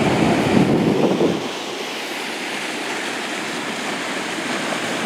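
Floodwater rushing under a bridge: a steady noisy rush of fast-moving water. A low rumble adds to it for about the first second and a half, then drops away, leaving the rush alone.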